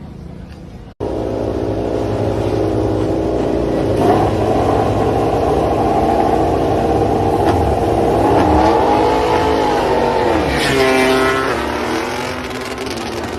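MotoGP racing motorcycle engine running at high revs, coming in suddenly about a second in. Its pitch holds steady for several seconds, dips and recovers, then drops sharply near the end and settles lower.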